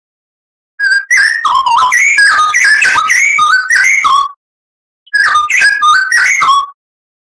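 Oriental magpie-robin (kacer) singing: two loud phrases of rapid, varied whistled notes that jump up and down in pitch, the first about three and a half seconds long and the second shorter, with dead silence around them.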